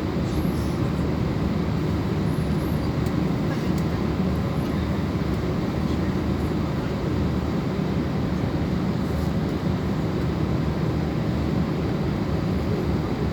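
Steady low rumble of an Airbus A320 in flight, heard inside the cabin: engine and airflow noise that holds an even level throughout.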